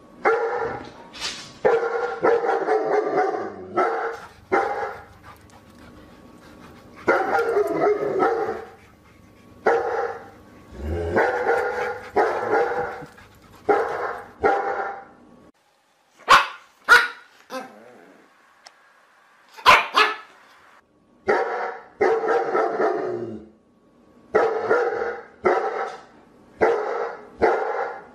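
Dog barking in repeated bursts of quick barks with short pauses between. Around the middle the bursts give way to a few single short, sharp sounds, then the barking resumes.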